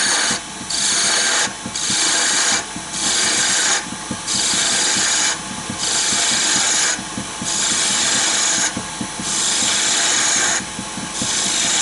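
A gouge cutting a spinning wooden spindle on a wood lathe, taking off wood to form a concave cove. It makes a hissing scrape in about nine passes, each roughly a second long, with short pauses between.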